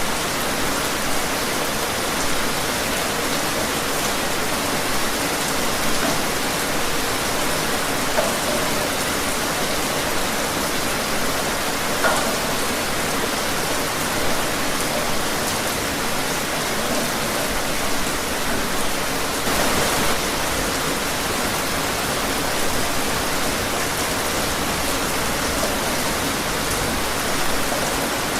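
Steady rain falling, a dense even hiss with scattered drops ticking on surfaces.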